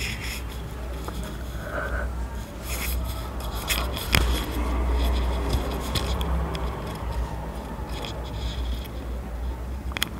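Light scraping, rubbing and small clicks of hands and a utensil working in a cooking pot, with a sharp click about four seconds in and another near the end. A low steady hum runs underneath.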